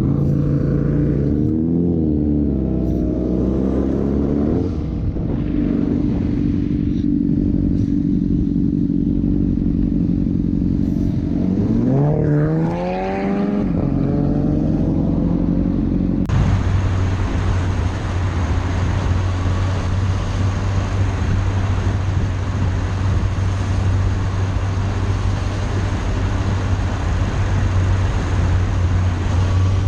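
Motorcycle engine running, its pitch dipping and rising around two seconds in and climbing again around twelve seconds in as it is revved. After an abrupt cut a little past halfway, a steady engine drone and heavy wind noise of a motorcycle riding at speed.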